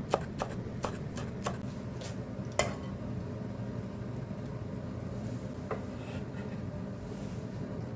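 Knife chopping on a cutting board, about three strokes a second, ending after a second and a half, then a single louder kitchenware knock and later a light tap. A steady low hum runs underneath.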